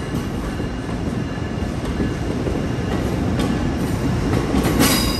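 Train running through the station: a steady low rumble with wheel clatter, and a brief high-pitched sound near the end.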